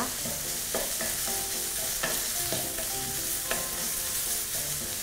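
Green curry paste sizzling in hot oil in a wok as it is stir-fried until fragrant, with a wooden spatula scraping the pan a few times.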